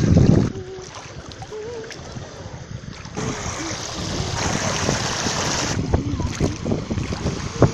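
Sea surf washing in, with one broad rush of a wave about three seconds in that lasts a couple of seconds. Wind buffets the microphone, hardest at the very start.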